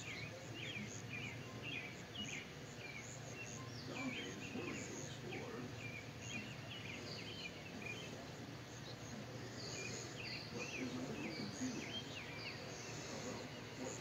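Small birds chirping: a busy run of short, high chirps, often several a second, over a steady low hum.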